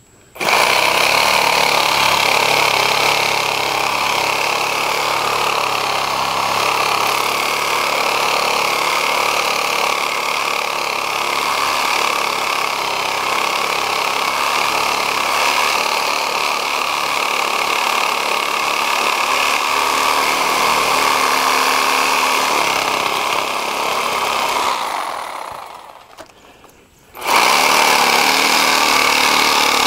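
Power tool motor running steadily at full speed, dying away over about two seconds near the end, then starting up again straight to full speed.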